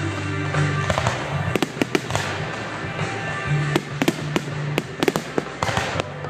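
Fireworks bursting in a rapid, irregular string of sharp bangs and crackles, over music with long held low notes.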